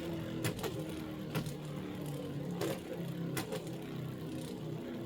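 Beyblade X spinning tops whirring in their plastic stadium with a steady hum, clacking sharply against each other several times as they clash.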